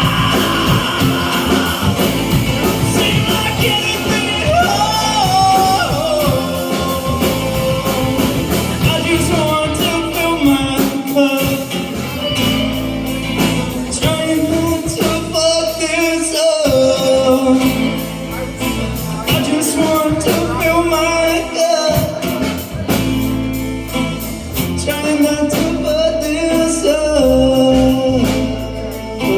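Live band playing a rock song with a singing voice over it.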